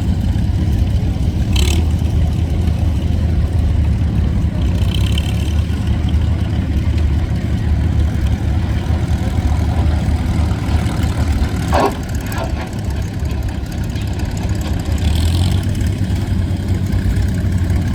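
The four-cylinder engine of a 1948 McCormick W4 tractor running steadily.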